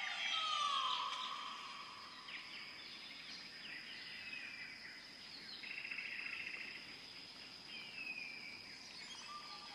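Several birds calling in a forest with whistled, falling notes and a short buzzy trill, over a steady high-pitched insect drone.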